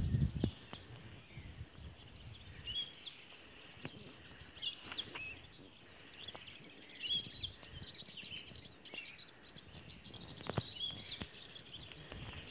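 Small birds chirping, short high notes repeating every second or so over faint outdoor background noise. A brief low rumble dies away at the start, and a few faint clicks are scattered through.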